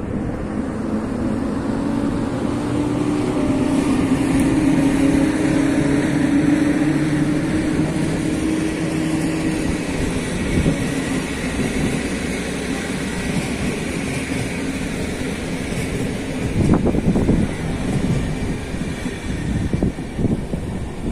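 Passenger train coaches rolling past over the crossing, wheels running on the rails. Near the end, irregular gusts of wind buffet the microphone.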